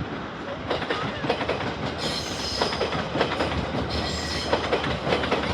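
Electric train running by, its wheels clattering over rail joints in a rapid string of clicks. A thin high squeal rises over the clatter about two seconds in and fades about two seconds later.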